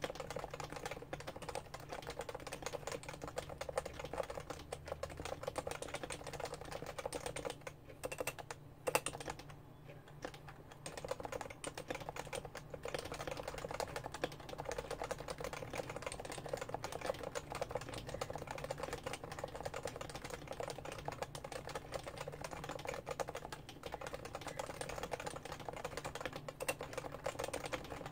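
Fast, continuous typing on a Topre-switch Realforce R2 keyboard, its keys rapidly clicking under the fingers. There is a short pause of about two seconds about nine seconds in.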